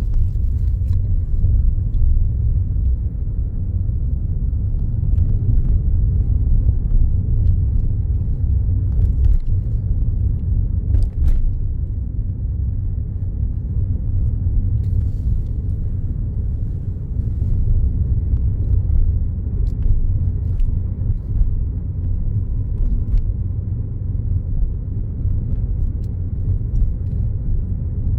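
Steady low rumble of a car being driven, heard from inside the cabin: engine and road noise, with a few faint clicks.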